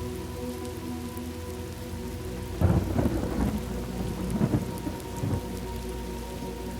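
Thunder over steady rain: a sudden crack about two and a half seconds in, followed by about three seconds of crackling, rolling rumble that then fades back into the rain.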